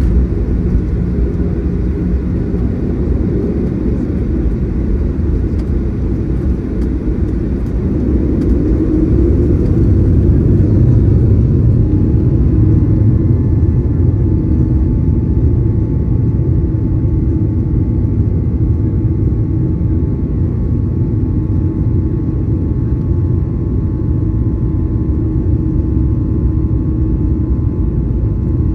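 Cabin noise of a Boeing 737-900ER with its CFM56-7B jet engines running: a steady low rumble that grows a little louder about ten seconds in, joined by a faint steady whine.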